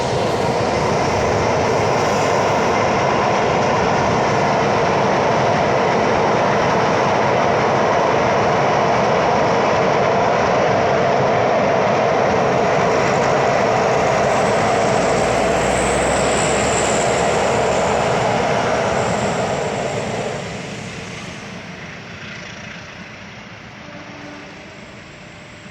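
Train passing close by: a loud, steady rumble and rattle of wheels on the rails, with a thin high squeal partway through, dying away over the last few seconds as it moves off.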